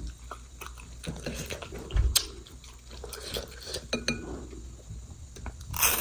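Close-miked chewing of food, with small wet mouth clicks, a dull knock about two seconds in and a brief louder noisy burst near the end.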